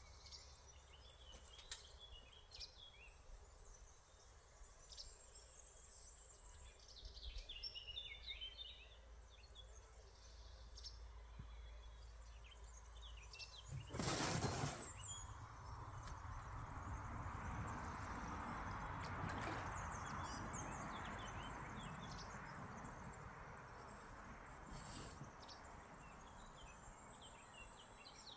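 Birds chirping faintly, with scattered short high calls. About halfway through comes a sudden loud burst of noise, followed by a broad hiss that swells and then slowly fades.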